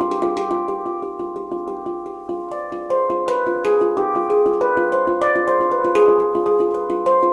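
Meraki handpan tuned G / C D Eb F G Ab B C D, an Arabic-sounding scale, played solo with quick hand strikes, the struck notes ringing on and overlapping. The playing softens about two seconds in, then comes back louder with higher notes.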